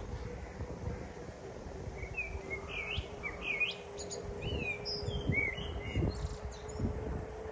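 A songbird chirping a quick series of short, sliding notes for a few seconds from about two seconds in. Under it is a steady low hum and soft thumps about once a second.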